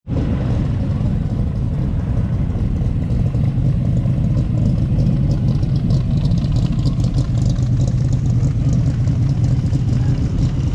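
Car engine running steadily, deep and even, with a faint crackle over it in the second half.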